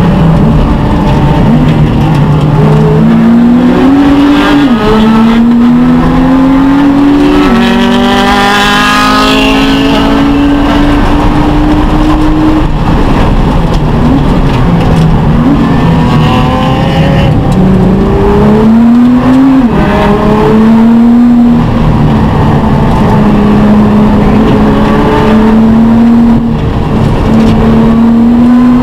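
Nissan GT-R R35's twin-turbo V6 heard from inside the cabin at racing speed. The pitch climbs steadily and drops sharply at each upshift, several times over. Partway through it falls away under braking before climbing again.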